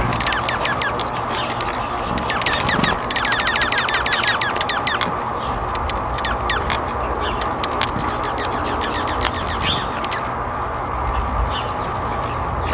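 Small birds chirping in rapid runs of short, quick notes, thickest in the first half, over a steady low hiss.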